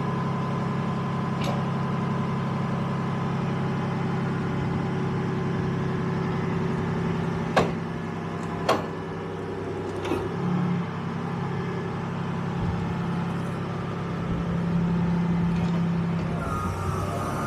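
M113 armoured vehicle's engine running steadily. About halfway through come two sharp knocks a second apart, and the engine note swells a little near the end.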